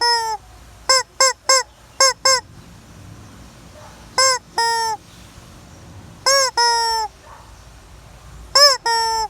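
Chicken calling loudly in harsh, nasal cries: a quick run of short calls in the first few seconds, then pairs of a short call followed by a longer drawn-out one, about every two seconds.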